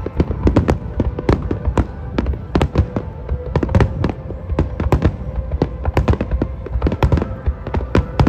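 Aerial firework shells bursting in a dense barrage: a rapid, uneven string of loud bangs, several a second, with low rumbling between them.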